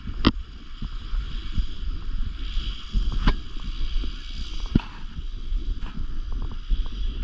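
Wind buffeting the microphone with a steady low rumble, broken by scattered sharp clicks and knocks, the clearest about a third of a second in, just after three seconds and near five seconds.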